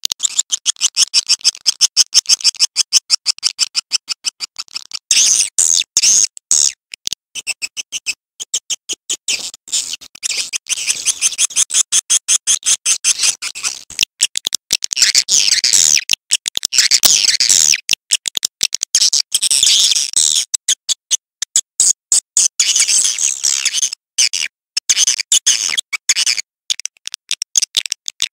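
Swiftlet calls: a dense, rapid twittering of high, clicking chirps repeating many times a second, in the style of the recorded lure sound played to draw swiftlets into a bird house.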